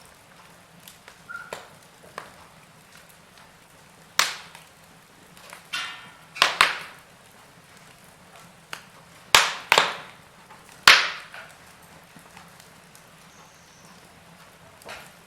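Burning logs in a fireplace crackling: a faint steady hiss broken by scattered sharp pops and snaps, several of them loud, each dying away quickly.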